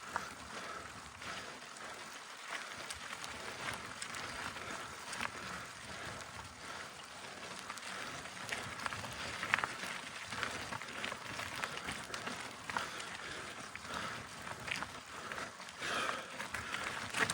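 Mountain bike climbing a soft dirt trail: the tyres crunch and scrabble on the ground, with scattered short clicks and knocks from the bike.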